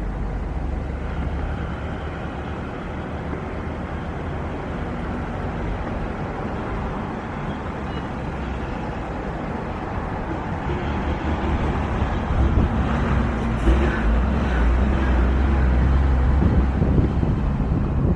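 Wind buffeting the microphone over a steady low rumble, growing louder in the last few seconds.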